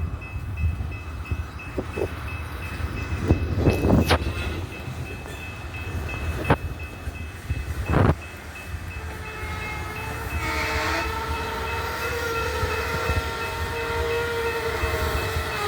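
Loaded coal train rumbling, with several sharp clanks in the first half, typical of coupler slack running in and out as the cars are moved back and forth. From about ten seconds in, a steady chord of several held tones sounds to the end, a diesel locomotive horn.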